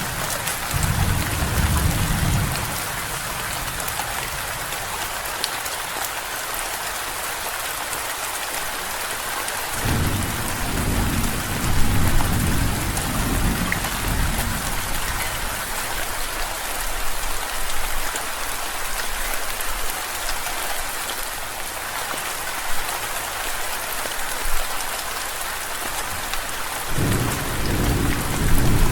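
Steady rain falling, with rolling thunder rumbling low at the start, again about a third of the way through for several seconds, and once more near the end.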